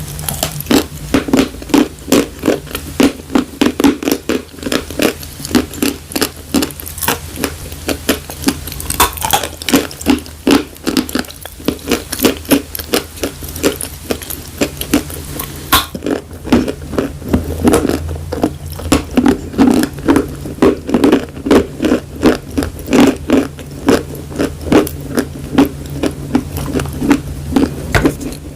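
Close-miked chewing of dry chalk: loud, crisp crunches in a steady rhythm of about three bites a second.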